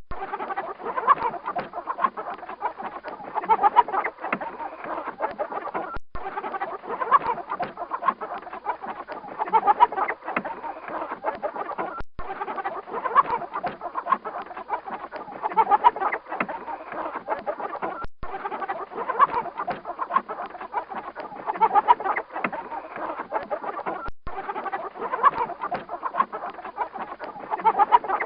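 Chickens clucking and calling in a dense, busy chatter. The same stretch of about six seconds repeats in a loop, with a brief dropout between repeats.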